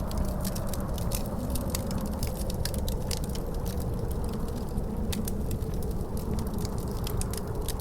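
Wood fire crackling with many sharp pops, over a steady low rumble of howling wind whose faint whistle slowly falls in pitch.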